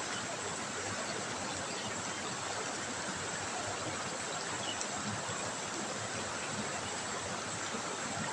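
River water trickling and running over stones, a steady even rush of water.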